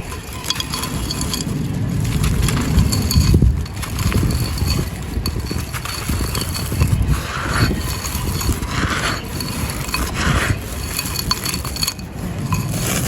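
A mini clay pot of dry, gritty sand-cement being crushed and crumbled: continuous crunching and crackling, with a few brief louder gritty crunches in the second half.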